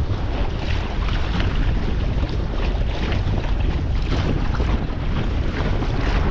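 Steady wind rumbling on the microphone, with water splashing and swishing irregularly along the hull of a Tinker Traveller inflatable dinghy under sail.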